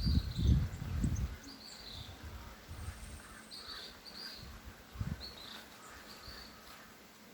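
Small birds chirping outdoors, short high chirps repeated about once or twice a second over a faint steady background. A low rumbling, like wind buffeting the microphone, is loudest in the first second and returns briefly about five seconds in.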